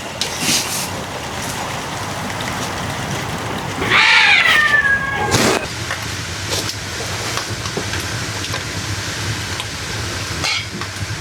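A cat meows once, a drawn-out call that falls in pitch, about four seconds in, over a steady hiss.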